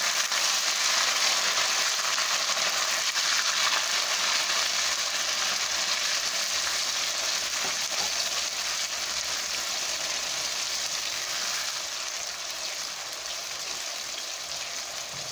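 Canned diced tomatoes sizzling as they fry in hot oil with browned onions in a saucepan. The steady sizzle is loudest at first and slowly eases off.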